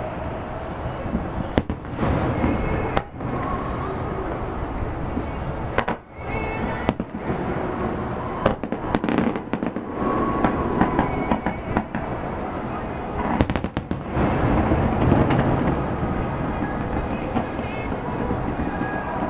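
Fireworks display: shells bursting in quick succession, with many sharp bangs over a continuous crackling rumble.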